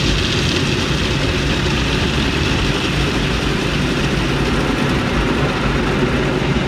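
Automatic car wash machinery running steadily around the car, heard from inside the cabin: a constant rushing noise over a low hum from the car's idling engine.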